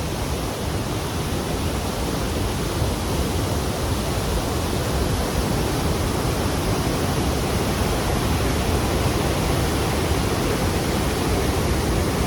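Khon Phapheng Falls, a massive waterfall on the Mekong, rushing with a steady, continuous roar of falling water.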